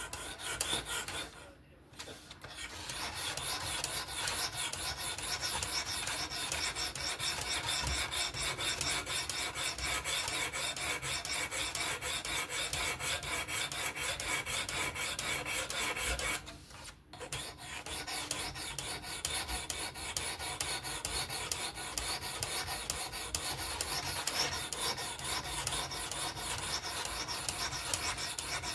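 Rapid back-and-forth strokes of a sharpening stone on a fixed-angle sharpener rasping along a Vosteed Acorn pocketknife's 14C28N steel blade. The scraping is continuous, with two short breaks, one about two seconds in and one about seventeen seconds in.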